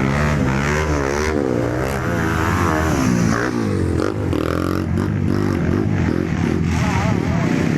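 Trail motorcycle engine revving hard, its pitch rising and falling again and again as the throttle is worked on a steep uphill climb.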